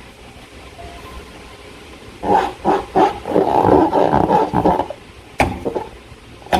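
Rubber balloon being handled, giving a loud, rough, growl-like rasp in a run of bursts for a few seconds, then a single sharp snap.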